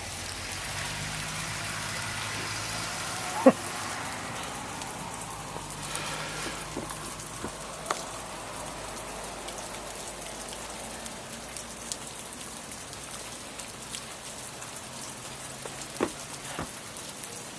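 Steady patter of sleet falling on surfaces, with a few sharp clicks, the loudest about three and a half seconds in.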